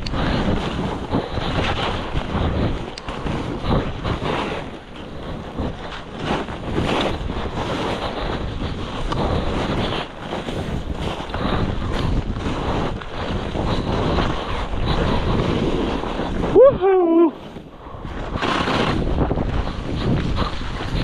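Wind rushing hard over the microphone of a skier's camera during a fast downhill run, swelling and easing unevenly. Near the end a skier shouts 'woohoo!' and the rush drops off briefly before returning.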